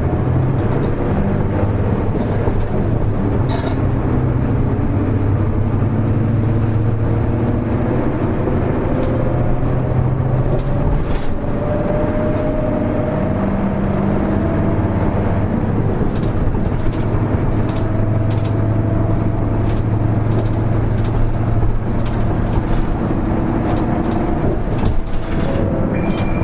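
Hino Rainbow HR city bus (KL-HR1JNEE) driving, heard from inside the cabin: a steady engine and drivetrain drone whose pitch climbs as the bus gathers speed, drops back, then climbs again. Light ticks and rattles come and go over it.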